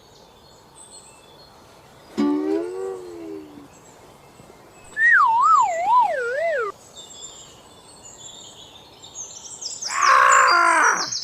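Added cartoon sound effects. About two seconds in there is a short tone that rises and falls. A few seconds later a wobbling whistle slides down in pitch for about a second and a half, the kind of effect used for something falling. Near the end comes a loud, high, bending cry.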